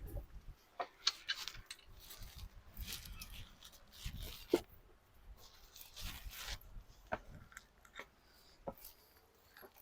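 Footsteps crunching and scraping on stones and gravel while crossing a shallow stream, with scattered sharp clicks and a few short bursts of rustling.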